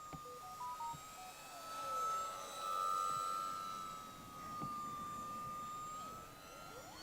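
Electric RC plane's brushless motor and propeller in flight at under half throttle: a steady whine that wavers slightly in pitch and swells louder for a second or so about two seconds in.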